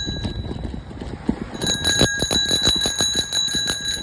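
Bicycle bell rung in rapid repeated dings, about six a second. It stops just after the start and rings again from about a second and a half in.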